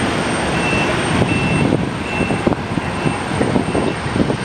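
Jet or propeller airliner engine noise mixed with wind buffeting the microphone in strong gusts. A series of short, high beeps repeats about every three-quarters of a second.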